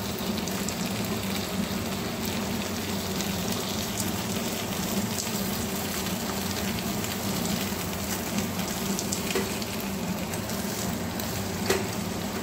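Pumpkin-leaf-wrapped fish parcels sizzling steadily as they shallow-fry in oil in a kadai. A few sharp clicks come from the steel spatula knocking the pan as the parcels are turned over.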